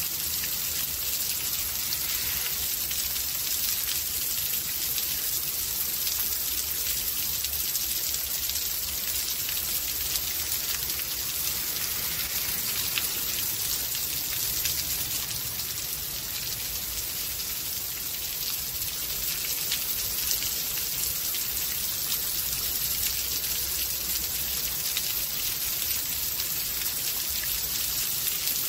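Steady rainfall from a rain storm: a dense hiss of drops with many fine individual ticks, over a low steady rumble.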